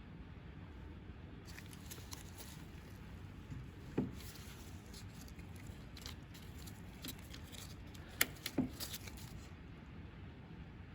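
Light handling noises of small parts on a work surface: a few scattered clicks and knocks, one sharper knock about four seconds in and two more near eight and a half seconds, over a low steady background hum.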